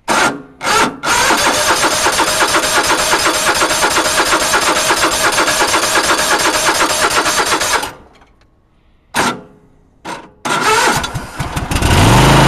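Lawn tractor's 20 hp Kohler engine being cold-started on full choke by its electric starter: two quick bumps of the starter, a long crank of about seven seconds that does not catch, two more short bumps, then a crank on which the engine fires near the end and settles into steady running.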